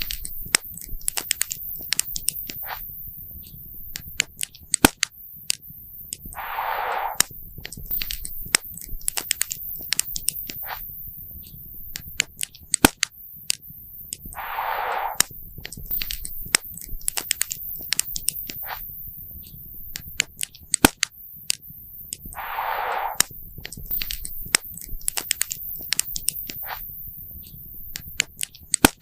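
Campfire crackling and popping: many sharp snaps over a low rumble, with a short hiss coming back about every eight seconds.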